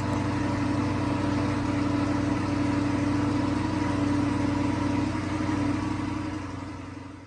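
1964 Ford Galaxie 500's engine running steadily at a low, even speed, fading out near the end.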